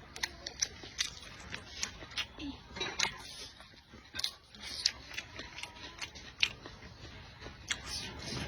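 Close-miked chewing and mouth sounds while eating: irregular wet clicks and smacks, several a second.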